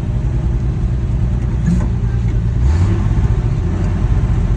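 Old Ford F-series pickup truck's engine running while being driven, its note stepping up briefly a little under three seconds in.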